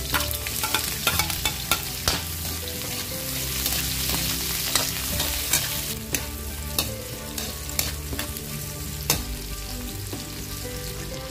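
Garlic, onion and ginger sizzling in hot oil in a metal wok, with a metal spatula scraping and clicking against the pan as they are stirred.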